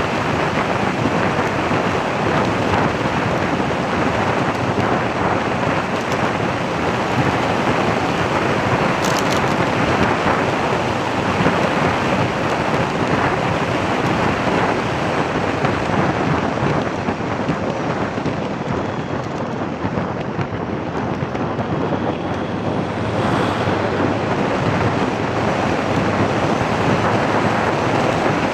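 Steady loud rushing noise with no pitch to it, wind and road noise picked up by a microphone on a moving vehicle. It eases off a little for a few seconds past the middle.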